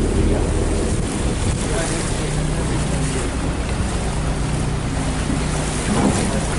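Harbour ferry's engine running with a steady low drone, under wind buffeting the microphone and the wash of water.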